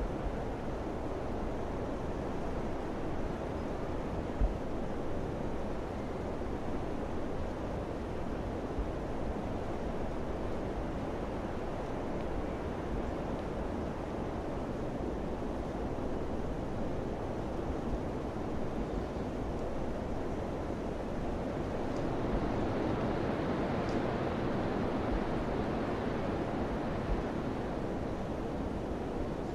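Summer wind blowing steadily with a low rumble and a few brief thumps. It swells into a stronger gust about three quarters of the way through.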